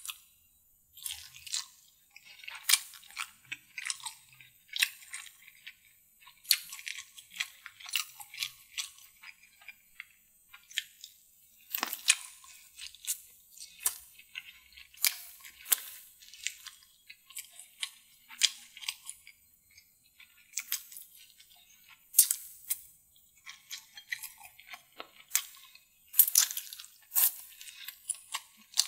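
Close-miked chewing and biting of a deviled chicken drumstick eaten by hand: a string of short, sharp mouth clicks and crunches at an irregular pace, with brief pauses between them.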